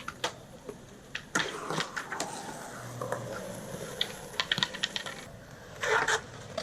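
Skateboards at a skate park: wheels rolling on concrete and boards clacking and slapping down in irregular sharp knocks, with a couple of louder scraping runs.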